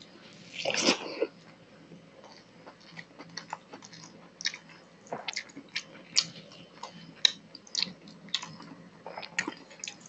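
Close-miked eating sounds of a person eating rice and curry by hand: a louder wet smacking mouthful about a second in, then scattered lip smacks and chewing clicks.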